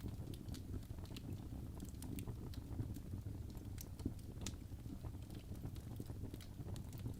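Wood fire burning in a fireplace: a low steady rumble of the flames with irregular sharp crackles and pops from the logs.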